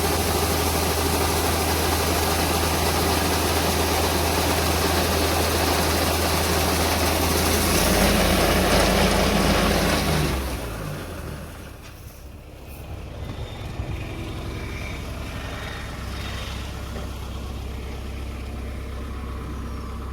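Diesel engine of farm harvesting machinery running loudly and steadily, swelling slightly about eight seconds in. About ten seconds in its pitch drops and the sound falls away, leaving a quieter engine running for the rest.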